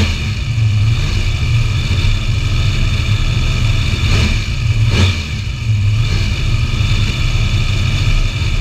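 Supercharged big-block V8 running steadily at low revs, a deep rumble with a steady blower whine above it. Two sharp cracks come about four and five seconds in.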